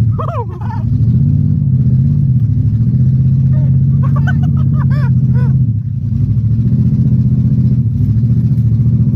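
Chevy car engine running loudly at steady high revs, its note dipping briefly about half a second in and again near six seconds. Voices shout over it.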